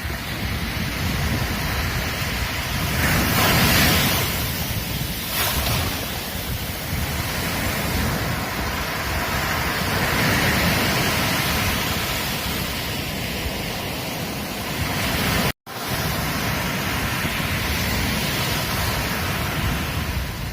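Ocean surf washing onto a beach, a steady rush that swells and eases as waves break, with the biggest swell about three to four seconds in. The sound cuts out completely for an instant about fifteen seconds in.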